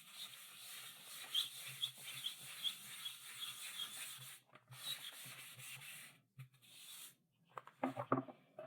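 Chalk writing on a blackboard: a run of scratchy strokes broken by short pauses, then a few short, sharper and louder strokes near the end.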